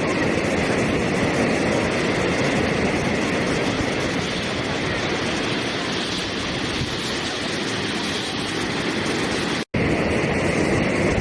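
Steady rushing water, an even full hiss and rumble with no break in its texture; it cuts out for an instant near the end, like a splice in the recording.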